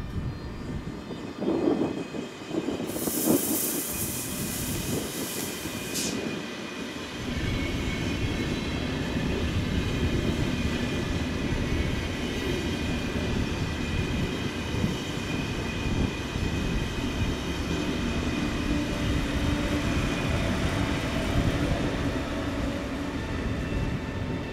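A train running through the station: a hiss of about three seconds near the start over faint whining, then from about seven seconds in a steady rumble and rattle of wheels on the rails.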